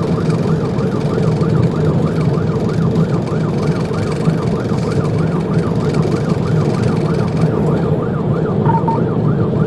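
Police car siren switched on in a fast yelp, a rapid rise and fall about three times a second, over the patrol car's engine and road noise.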